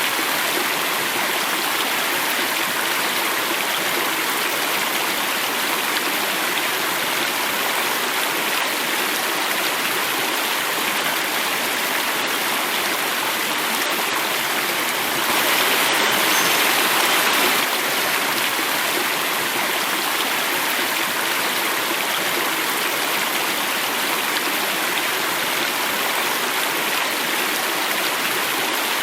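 Water running and falling in a natural stream cascade: a steady rushing, slightly louder for a couple of seconds about halfway through.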